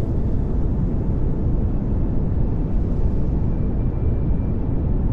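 Pink noise: a steady, even rushing hiss with most of its weight in the low end, unchanging throughout.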